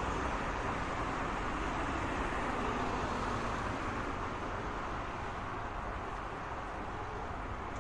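Steady road traffic noise, a continuous wash of passing cars and tyre hiss, easing slightly in the second half.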